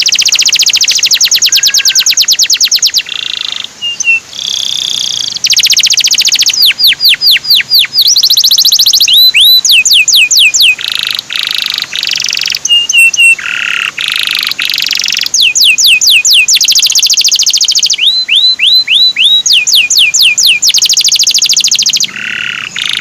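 Male canary singing: fast rolling trills of repeated notes alternating with runs of rising, hooked 'cuit' notes, one phrase after another with barely a pause.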